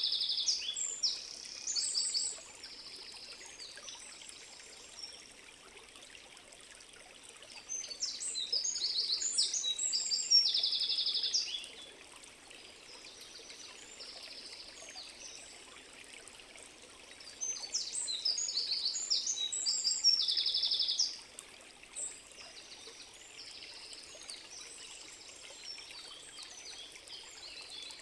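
A songbird singing in bouts of rapid trills and quick high notes, three times over, above the steady rush of a forest stream.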